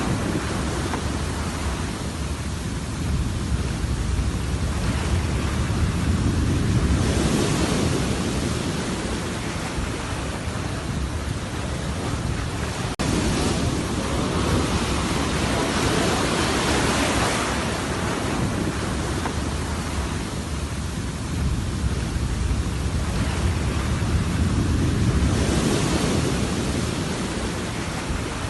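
Heavy surf from a rough monsoon sea: waves rushing in and breaking in slow surges several seconds apart over a continuous rushing noise, with a brief break about halfway through.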